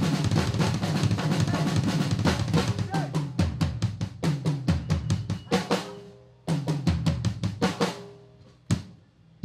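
Live drum kit playing a fast run of snare, bass drum and rimshot hits. It breaks off about six seconds in, comes back for a short burst, and ends on a couple of single hits.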